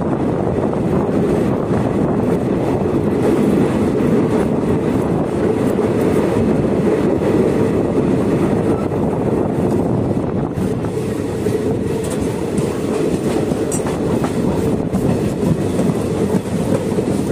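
Passenger train running on the track, heard from an open coach doorway: the steady running noise of the coach and its wheels on the rails.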